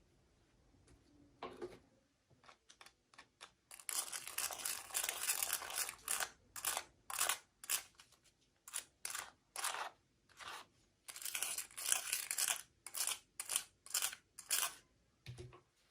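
Toy packaging being opened by hand: a couple of stretches of crinkling and tearing, broken up by a run of short separate rustles about two a second.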